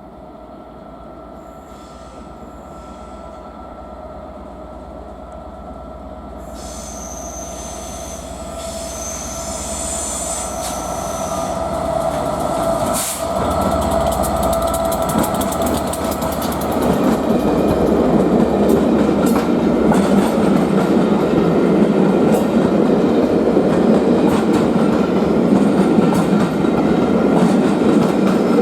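A train approaching, growing steadily louder over about seventeen seconds with a steady high squeal from the wheels and rails, then running close past with the rumble and clickety-clack of its wheels over the rail joints.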